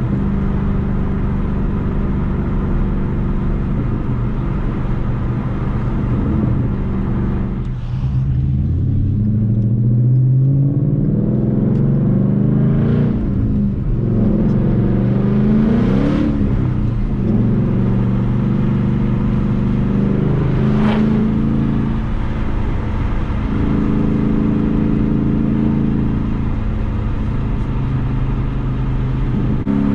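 Ford Mustang GT's 5.0-litre V8 pulling through the gears of its manual gearbox: the engine runs steady, then about eight seconds in climbs in pitch several times with short breaks for gear changes, and settles back to a steady cruise near the end.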